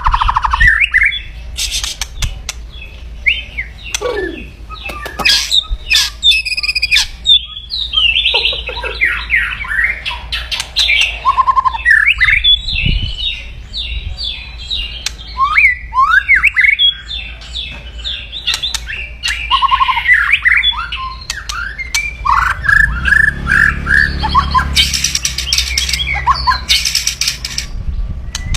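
White-rumped shama (murai batu) giving kretekan, its harsh, aggressive rattling calls, fast and dense, mixed with sharp clicks and short whistled notes. Near the end a stretch of rough, noisy sound with a low hum runs under the calls.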